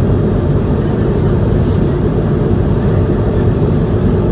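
Steady engine and airflow noise heard inside the economy cabin of an Airbus A220-100 airliner with its Pratt & Whitney PW1500G geared turbofans, a deep, even rush with no changes.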